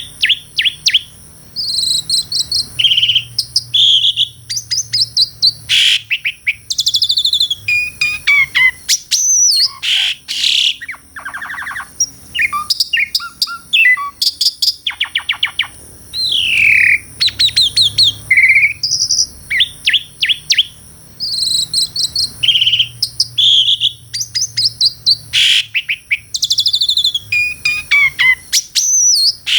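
Asian pied starling (jalak suren) singing a long, varied song: clear whistles, rapid chattering trills and notes that slide up and down, delivered in quick phrases with short pauses between them.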